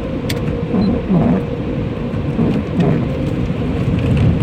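Automatic car wash heard from inside the car's cabin: water spray and wash machinery beating on the body in a loud, rain-like rumble, with a steady mechanical hum underneath.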